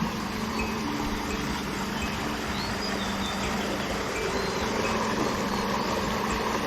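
Steady outdoor background noise with a constant low hum, and a few faint, short, high bird chirps about halfway through.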